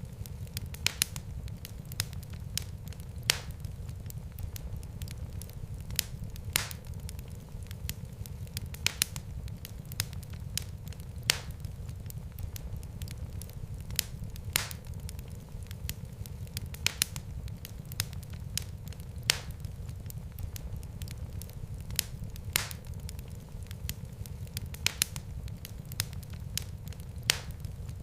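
Fireplace fire crackling: sharp, irregular pops, a few loud ones every second or two among many fainter ones, over a steady low rumble of the flames.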